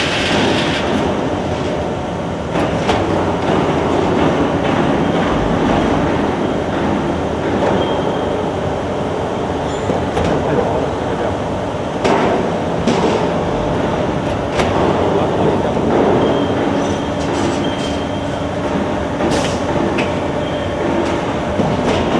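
Automatic HVAC duct production line for sheet metal, running with a steady mechanical rumble and hum. Several sharp metallic clanks come at irregular intervals.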